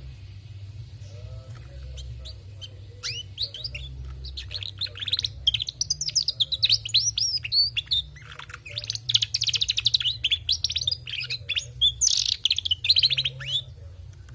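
Female domestic canary twittering in quick rapid chirps and trills. This is the twittering often taken as a sign of a male, though this bird is a hen. The song starts about three seconds in and comes in bursts until shortly before the end.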